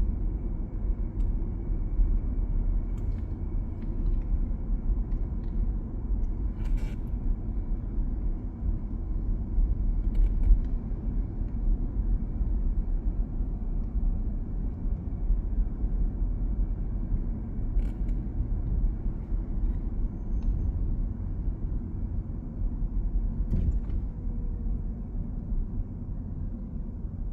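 Steady low rumble of city road traffic, with a few faint ticks along the way.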